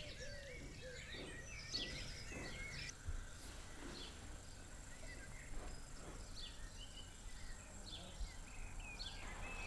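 Faint birdsong from several small birds, quick chirps and whistles, over a low outdoor background hum, picked up by a small camera's built-in microphone.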